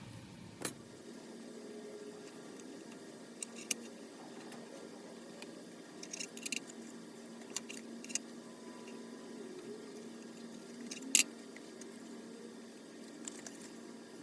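Scattered light clicks and taps of small objects being handled, over a steady low hum; the sharpest click comes near the end.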